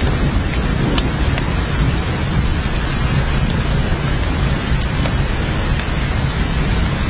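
Steady rain falling, an even hiss with scattered sharp drop ticks over a continuous low rumble.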